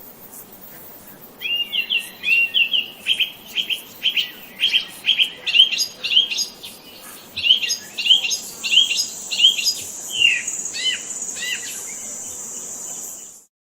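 Songbird chirping: a quick series of short, repeated chirps, with a steady high-pitched buzz joining about eight seconds in; both cut off suddenly near the end.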